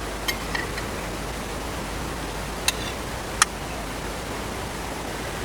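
Steady hiss of background noise with a few short, sharp clicks from someone eating, two of them louder near the middle.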